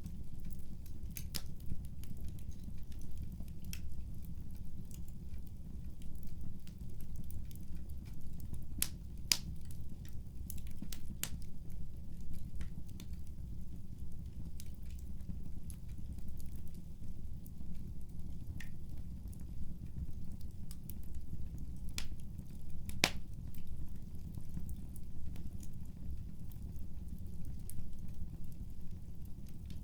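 Wood fire crackling: a steady low rumble with irregular sharp pops and snaps, the loudest about nine and twenty-three seconds in.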